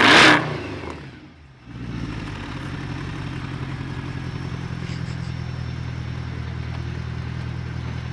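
Mercedes-AMG C63 engine blipped to a sharp rev right at the start, falling away within about a second, dipping low for a moment, then settling into a steady idle.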